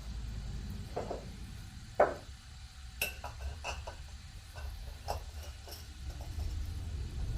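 Irregular light clicks and knocks, roughly one a second with a quick cluster about three seconds in, over a steady low rumble.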